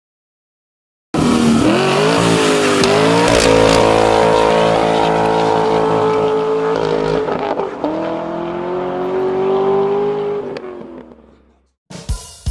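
Mercedes E550's 4.7-litre twin-turbo V8 through a Kinney's Tunnel Ram performance exhaust, accelerating hard: the engine note climbs in pitch about a second in and holds high. It dips around seven seconds in, climbs again, then fades away near the end.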